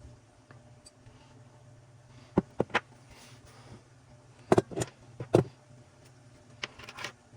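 Sharp clinks and knocks of metal saw parts and tools being handled on a workbench, in small clusters of two or three, over a steady low hum.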